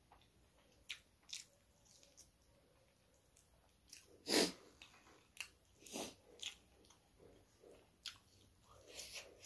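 Close-up sounds of eating rice and curry by hand: chewing with short mouth clicks scattered through, and one louder sound a little over four seconds in.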